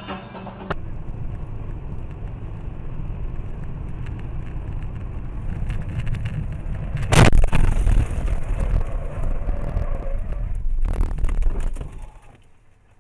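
Car driving under a dashcam: steady road and engine noise, with a sudden, very loud impact about seven seconds in and another shorter bang near eleven seconds. The sound drops away abruptly shortly before the end.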